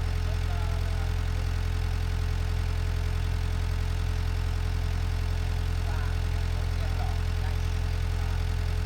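Bulldozer's diesel engine running steadily at an even pitch, a constant low drone.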